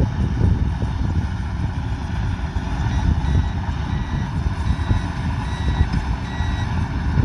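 A combine harvester's engine runs with a steady rumble. From about three seconds in, a reversing alarm beeps repeatedly, which is the sign that the machine is backing up.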